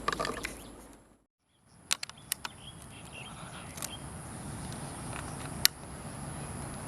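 Outdoor ambience with a steady high-pitched insect drone, broken by a few sharp clicks and taps, the loudest near the end. The sound cuts out completely for a moment about a second in.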